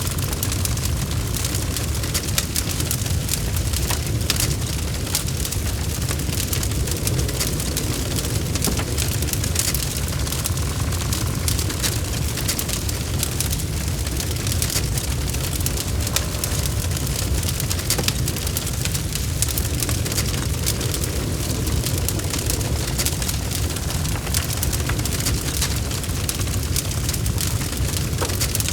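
Wood fire burning in a fireplace, with a steady low rumble and dense, continuous crackling and popping of the logs.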